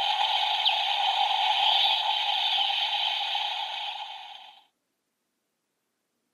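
Electronic sound effect from the DX Grease Blizzard Knuckle toy: a steady, loud rushing hiss that fades slightly and cuts off about four and a half seconds in.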